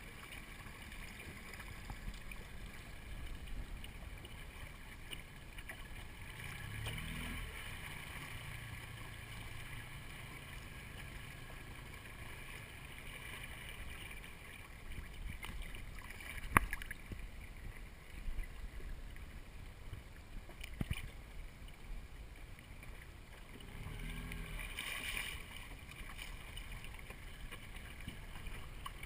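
Water lapping and gurgling against the hull of a small dinghy, with steady wind noise on the microphone, and one sharp knock about halfway through.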